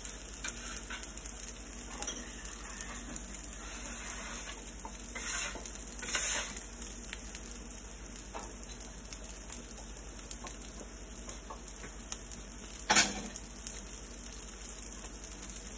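Hamburger meatballs sizzling steadily in a frying pan as they brown in their own rendered fat, with occasional light knocks of utensils. One sharp knock late on is the loudest sound.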